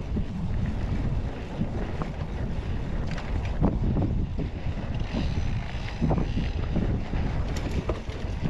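Wind buffeting a camera microphone during a mountain bike ride, a steady low rumble, with scattered clicks and rattles from the bike rolling over rocky trail.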